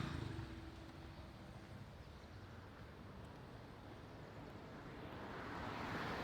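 Road traffic going by: a passing vehicle fades away in the first half second, then a steady traffic hum, with another vehicle drawing closer and growing louder near the end.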